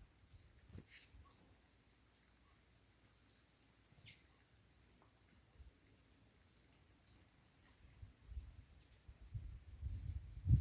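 A few short, high chirps from sayaca tanagers, the loudest about seven seconds in, over a steady high-pitched insect drone. A low rumble builds near the end.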